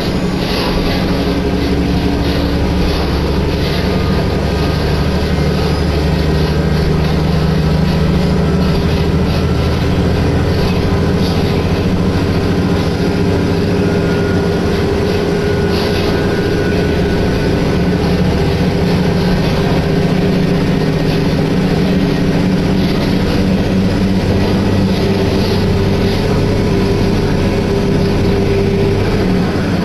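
Diesel railcar heard from inside the passenger cabin while running along the line: a steady engine drone with the noise of the wheels on the rails.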